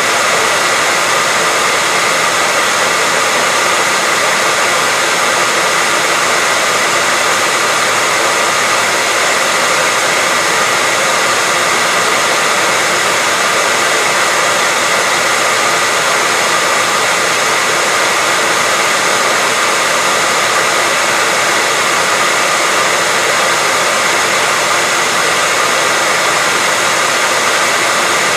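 Hair dryer running steadily at one speed: an even rush of blown air with a faint steady whine, unchanging throughout.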